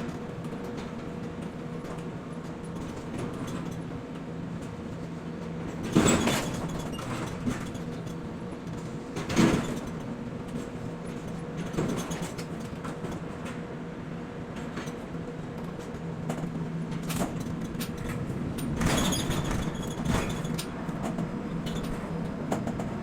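Container-terminal machinery running with a steady hum, broken by loud bangs about six, nine and a half, twelve and nineteen seconds in, with lighter knocks between.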